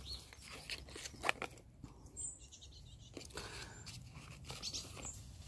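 Scattered faint clicks and rustles, with a few brief, high bird chirps about two seconds in and again near the end.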